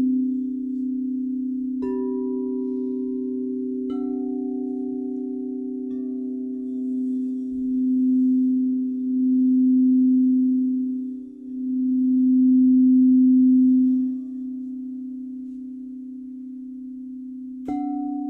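Crystal singing bowls ringing. A low bowl sounds on steadily, swelling and fading in loudness several times. Higher-pitched bowls are struck about two, four and six seconds in and again near the end, each adding a new ringing tone over it.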